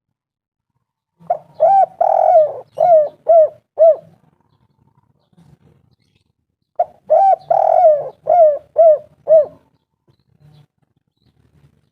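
Spotted dove (tekukur) cooing: two phrases of about six quick coos each, every note rising and falling in pitch, a few seconds apart.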